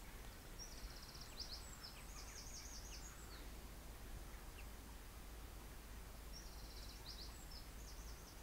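Faint songbird singing the same short phrase of a trill and quick slurred notes twice, about six seconds apart, over a low steady hum.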